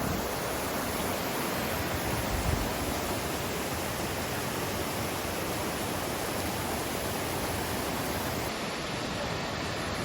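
Steady rushing roar of a large waterfall falling into a gorge.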